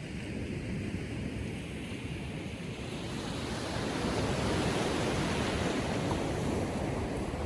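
Small waves breaking and washing up the beach on a calm sea. The wash swells about halfway through and eases off near the end.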